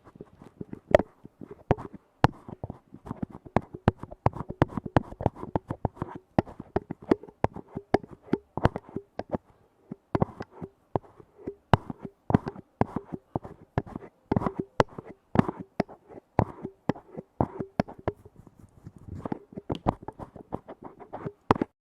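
Rapid, irregular tapping on lids, several taps a second. Many taps leave a brief ringing note of the same pitch. The tapping stops just before the end.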